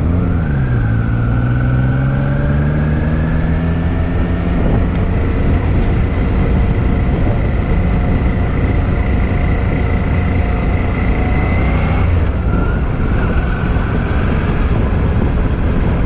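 Motorcycle engine running under way: its pitch dips right at the start, climbs slowly for about eleven seconds as it speeds up, drops sharply about twelve seconds in at a gear change, then climbs again, under a steady rush of noise.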